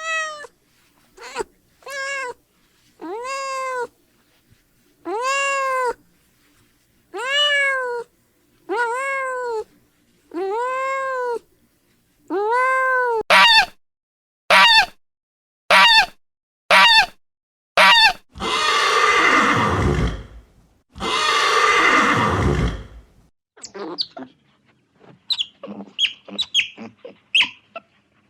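A string of animal calls. First come about ten drawn-out calls, each rising and falling in pitch like a cat's meow. Then come a few short sharp sounds, two long harsh calls, and quick high chirps near the end.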